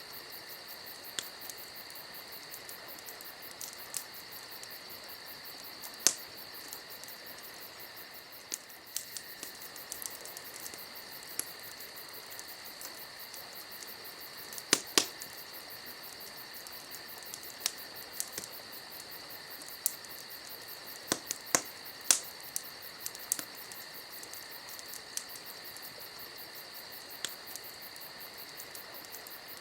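Wood campfire crackling, with irregular sharp pops, a few of them much louder than the rest. Under it runs the steady high chirping of crickets.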